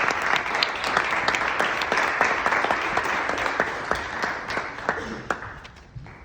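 Audience applauding, the clapping thinning out and fading away over the last two seconds.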